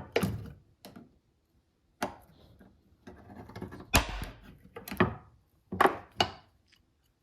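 Irregular sharp knocks and clatter of hard objects struck or set down in a workshop, about eight separate hits with gaps between them, some ringing briefly.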